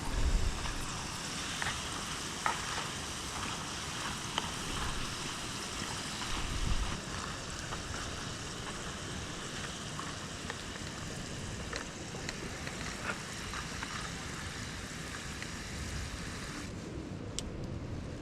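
French fries deep-frying in hot oil: a steady sizzle with many small crackles and pops. The sizzle drops away abruptly about a second before the end, and a couple of low bumps come early on.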